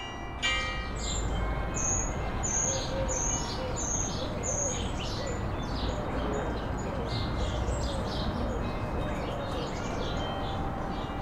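Birds chirping: a run of about six short, high, falling chirps roughly two a second, then scattered chirps, over a steady low background rumble. The last notes of a bell chime die away at the very start.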